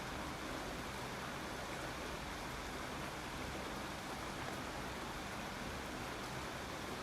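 Steady, even rain: a constant hiss with no distinct drops or gusts.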